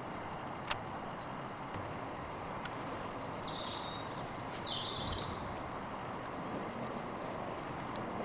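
Outdoor garden ambience: a steady background hiss with wild birds giving a few short, high, falling chirps, once about a second in and several more between three and five seconds in. A single sharp click comes just before the first chirp.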